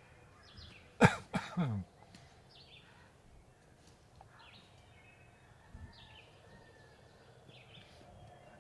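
Songbirds singing in repeated short high chirping phrases in spring woodland, with one loud, short falling call or cry about a second in.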